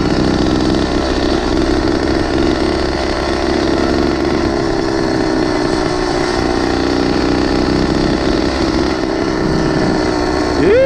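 Small engine of a motorized bicycle running steadily.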